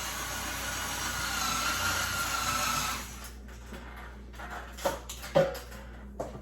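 A steady whirring hiss that cuts off suddenly about three seconds in, followed by a few light knocks and clicks of hardware being handled.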